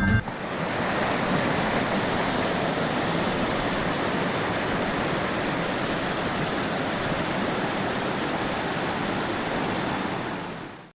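Steady rush of flowing water from a glacier-fed mountain stream, fading out just before the end.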